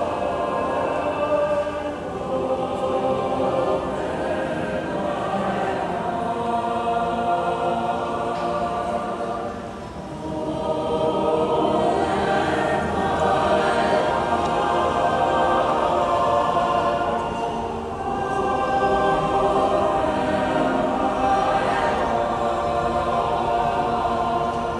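A choir singing a hymn in sustained phrases, with a short breath between phrases about every eight seconds.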